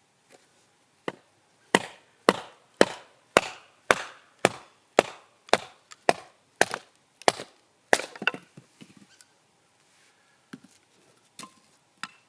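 Firewood being split by hand: a quick run of about a dozen sharp, woody strikes, about two a second, then a few lighter knocks near the end.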